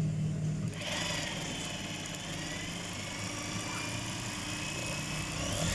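Industrial single-needle sewing machine's motor running with a steady high whine, starting about a second in.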